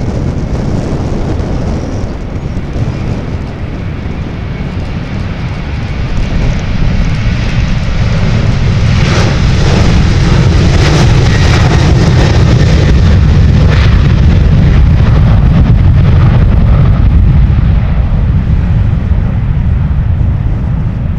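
Jet airliner engines at takeoff power, a loud, steady rumble that grows louder about six seconds in and stays loud.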